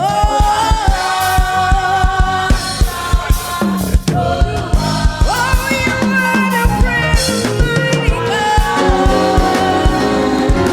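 A choir singing with a live band in rehearsal: held vocal notes that slide between pitches over a drum kit keeping a steady beat.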